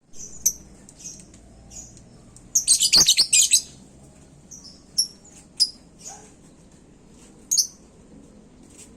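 Lovebird calling in short, high chirps, with a rapid burst of chattering about three seconds in.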